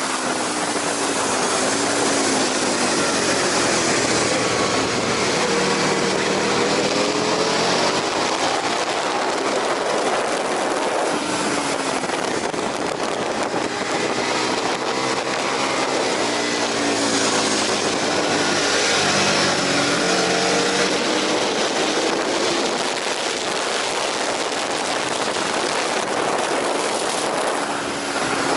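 Aprilia RSV 1000 Factory's V-twin engine at racing speed on track. Its pitch climbs and drops again and again as it revs through the gears and slows for corners, under a heavy rush of wind.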